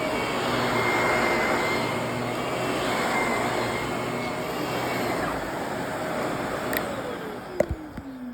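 Vacuum cleaner running steadily with a faint high whine. Near the end come a few sharp clicks, and the motor winds down with a falling pitch as it is switched off.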